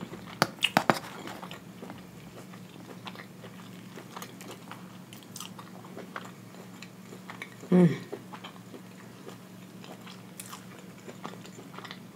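Close-miked chewing of a mouthful of hibachi food, with wet mouth clicks throughout. A quick run of sharp clicks comes about half a second in, and a brief hum comes from the eater near eight seconds.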